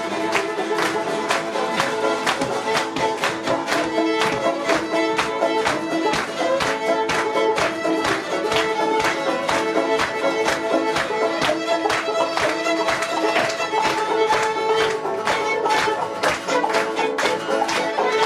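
Old-time string band playing an instrumental break: a fiddle carries the melody over a steady, driving strummed rhythm.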